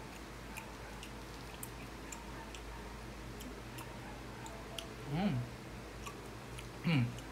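Close-up mouth sounds of eating orange wedges: soft irregular clicks and smacks of chewing and lips. Twice in the second half comes a short hummed 'mm' with its pitch bending.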